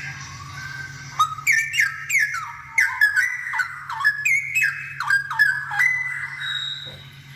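Straw-headed bulbul (cucakrowo) singing: a soft warble, then from about a second in a fast, loud run of liquid whistled notes, most of them falling in pitch, which eases off around six seconds. A faint steady low hum runs underneath.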